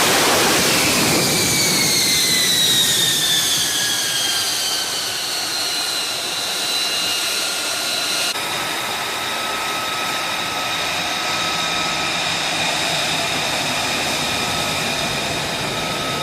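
F-35B Lightning II jet engine: a loud roar gives way to a high whine that falls steadily in pitch over several seconds. After an abrupt cut about halfway through, a steady high whine continues.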